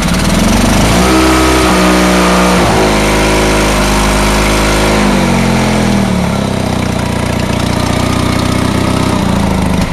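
Honda engine running just after a cold start. It revs up as it catches, runs fast, drops to a lower idle about five seconds in, and cuts out at the very end: it stalled when the wrong control was moved instead of the choke.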